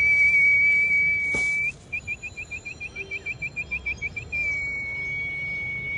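A high whistle used to call kites in to be fed: a long steady note, then a quick run of about sixteen warbling chirps, then another long steady note.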